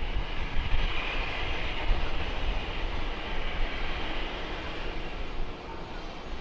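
Airbus A321 jet airliner taking off, its engines at takeoff power making a steady rushing rumble that is loudest about a second in and eases slightly toward the end.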